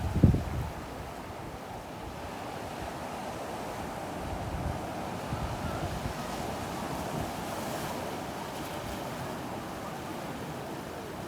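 Surf on a beach: a steady rushing wash of waves. In the first second a gust of wind buffets the microphone.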